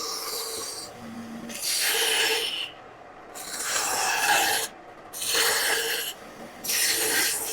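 Tool or hand working a woodblock in repeated long scraping strokes, about five of them, roughly one every second and a half.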